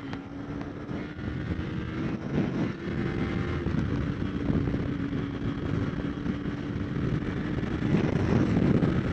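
Kawasaki Ninja 300 parallel-twin engine running at a steady cruising speed, its note holding level, under wind rushing over the microphone that grows a little louder near the end.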